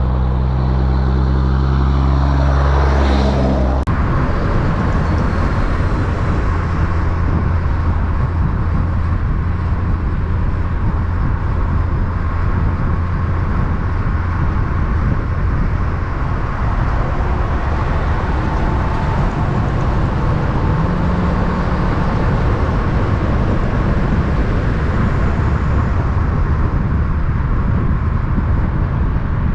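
A heavy truck's engine passes close by, its pitch falling as it goes. About four seconds in the sound cuts to a steady low rumble of road traffic.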